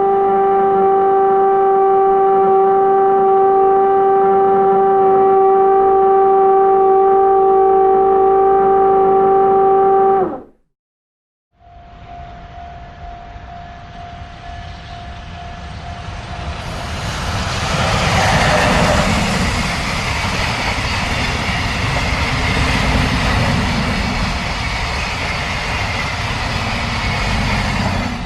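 A train's air horn sounds one long, steady chord for about ten seconds, dipping slightly in pitch as it cuts off. After a second of silence, the rumble of a passing train builds and stays loud, with a faint steady tone running through it.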